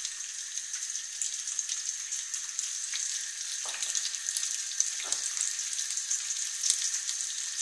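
Boiled potato cubes frying in ghee in a pan, a steady sizzle with fine scattered crackles.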